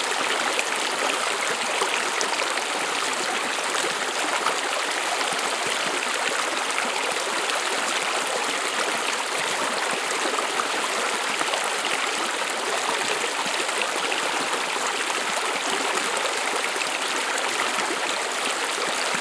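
A stream of water running and babbling steadily.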